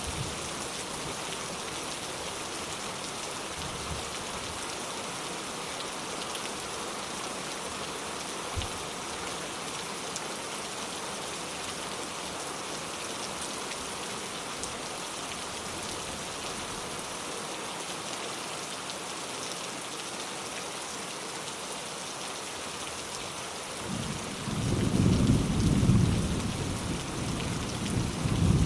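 Steady rain falling, with a few faint single drips knocking; about 24 seconds in a low rumble of thunder rolls in, swelling twice before the end.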